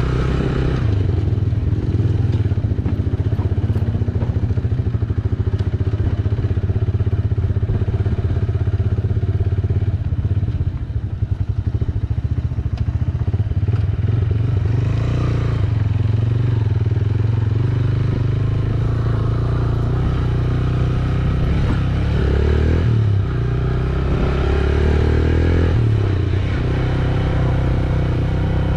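Single-cylinder engine of a Yamaha YBR125G motorcycle running steadily under way, its pitch shifting briefly a few times in the last third. A little past a third of the way in, the sound drops slightly in level.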